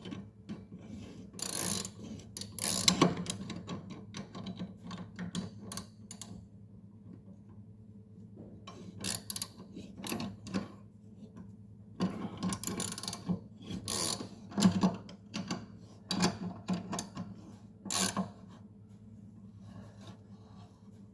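Ratchet wrench clicking in short spurts while a blade bolt is run into the spindle of a mower deck.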